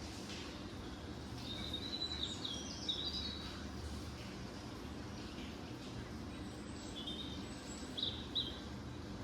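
Small birds chirping: short high chirps come in two clusters, a little over a second in and again near the end. Under them runs a steady low background noise.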